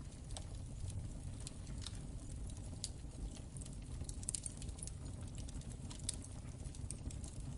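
Crackling wood fire in a fireplace: irregular sharp crackles and pops over a steady low rumble of the flames.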